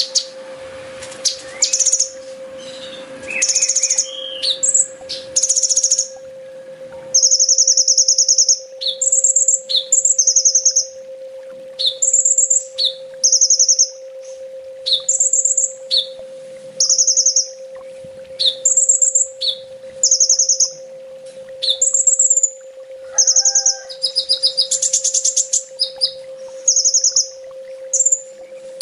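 Kolibri ninja sunbird song: short, high, buzzy trilled phrases repeated every second or two, switching back and forth between two pitches. The opening few seconds hold more varied calls. A steady low hum runs underneath.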